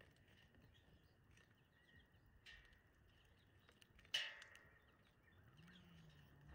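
Faint chirps of small birds, with a sharp knock about four seconds in, a softer one earlier, and a faint low hum near the end.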